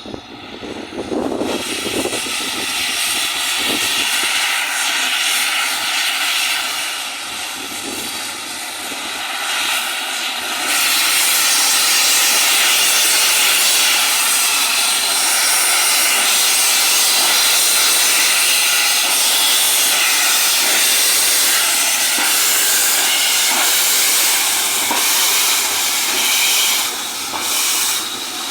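Steam locomotive hissing steam: a steady hiss that becomes much louder and fuller about ten seconds in and then holds.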